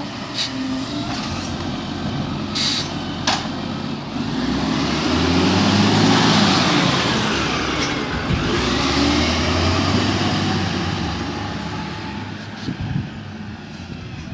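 Garbage truck's diesel engine running and revving up, its pitch and loudness rising to a peak about six seconds in and then falling away. There are three short sharp air hisses in the first few seconds.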